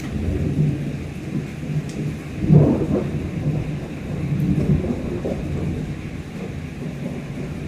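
Thunder rumbling over steady rain, the roll swelling loudest about two and a half seconds in and again a couple of seconds later.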